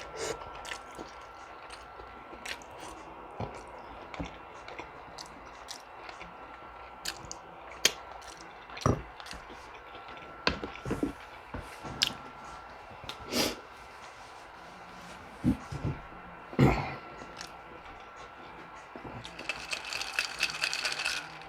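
Close-up eating sounds: chewing with wet mouth smacks, squishes and crunches at irregular intervals, and a denser run of rapid clicks near the end.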